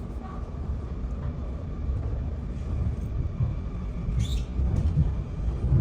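Low, steady rumble of a Sydney electric passenger train running along the line, heard inside the carriage, growing a little louder about two seconds in. A brief high sound cuts through about four seconds in.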